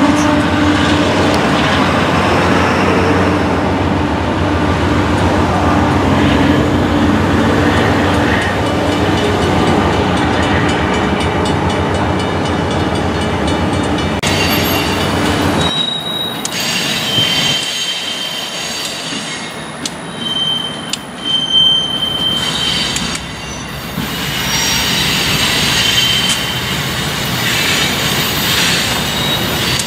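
Freight train of covered hopper cars passing, with a Union Pacific diesel locomotive at its rear: engine drone and steel wheels on rail, loud for the first half, then dropping away as the train clears. A quieter stretch follows with a few short high tones, and near the end the rumble of an approaching train builds again.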